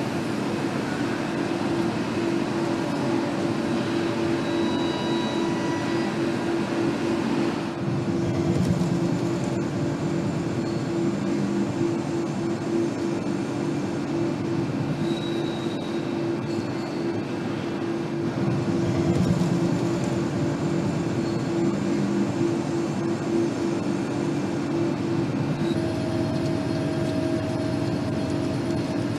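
Steady mechanical hum with a constant low drone, swelling a little twice, and a few brief high-pitched tones.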